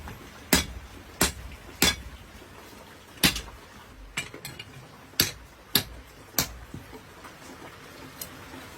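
Hammer blows on a khukuri blade being forged, sharp metallic strikes about one every 0.6 s. After a heavy blow a little past three seconds come lighter strikes that trail off, with one last faint tap near the end.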